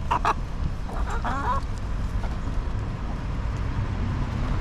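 A chicken gives a short call about a second in, with a couple of clicks just before it. A steady low rumble runs under it.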